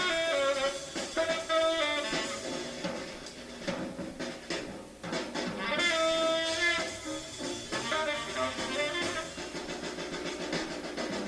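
Up-tempo jazz: a tenor saxophone plays quick phrases in short bursts over a drum kit keeping time.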